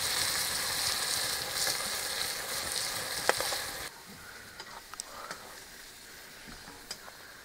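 Food sizzling as it fries, with a sharp clack, like a spoon striking the pan, about three seconds in. The sizzling cuts off suddenly a little past halfway, leaving only a few faint clicks.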